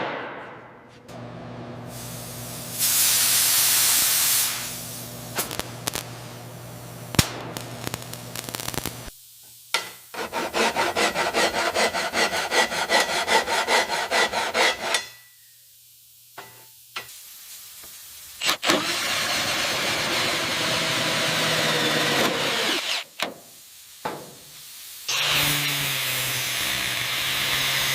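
Workshop tool noise in separate bursts: a short hiss, then a fast pulsing rattle for about five seconds, then long stretches of steady abrasive noise over a low hum, with short pauses between.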